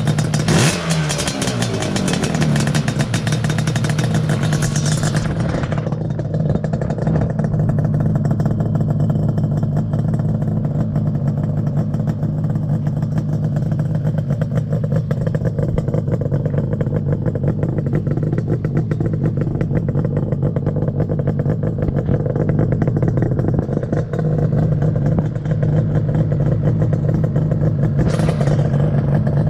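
Yamaha RZ350's two-stroke parallel-twin engine during a cold start: the revs fall away over the first couple of seconds, then it settles into a steady idle.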